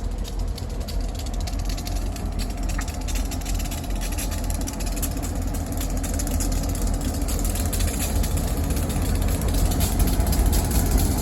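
Providence and Worcester diesel freight train running, a steady low rumble that grows louder near the end.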